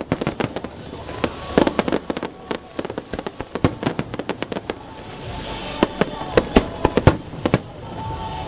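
Fireworks going off in a dense, irregular run of bangs and crackles, thinning after about five seconds to a handful of louder single bangs.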